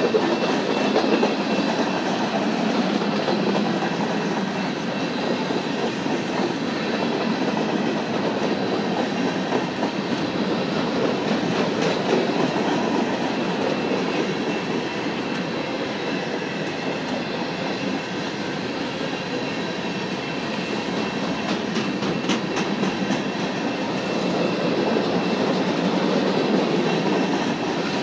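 Freight cars of a mixed manifest train (covered hoppers, tank cars, flatcars and boxcars) rolling past on steel wheels: a steady rumble of wheels on rail with clickety-clack from the rail joints and a few sharp clicks about three-quarters of the way through.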